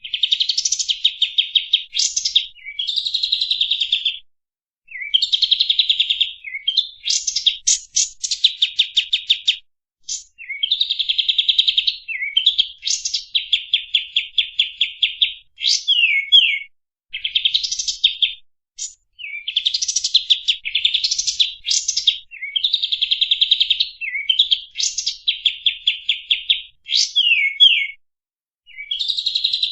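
Kapas tembak songbird singing in a continuous series of fast, rattling trills and chattering phrases, high-pitched and broken by short pauses, with an occasional quick rising note. It is a masteran recording, the song used to teach caged songbirds.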